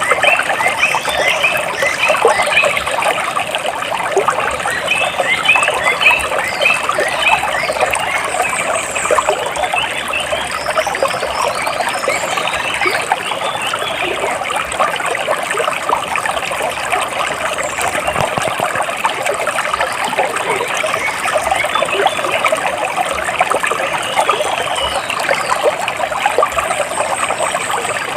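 Water splashing and trickling steadily, with small birds chirping over it; a quick run of repeated chirps comes in the first few seconds, then scattered higher chirps.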